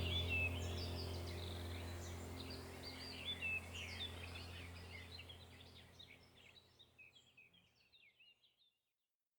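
Small songbirds chirping and twittering at a winter grain feeder over a low steady hum. The whole sound fades away to silence near the end.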